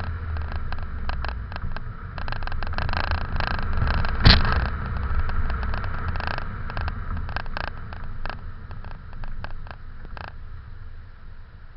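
Ford Fiesta EcoBoost engine on its stock exhaust, heard from the rear of the car while it drives slowly: a steady low rumble with scattered ticking and one sharp knock about four seconds in, growing quieter near the end.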